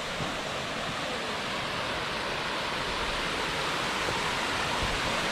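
Steady rush of falling water from a waterfall running with little water, slowly growing a little louder.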